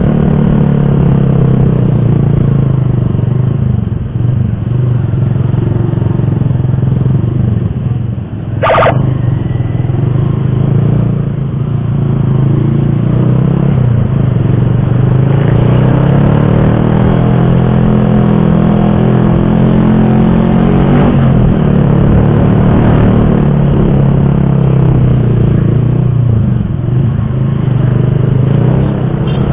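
Motorcycle engine running steadily while riding, its note rising and falling a little with the throttle. There is a single sharp knock about nine seconds in.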